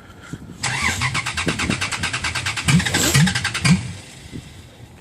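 Cold carbureted Dodge Ram engine being cranked by its starter: a fast, even chug begins about half a second in, runs for about three seconds and stops near the four-second mark without the engine starting. It is a cold hard start.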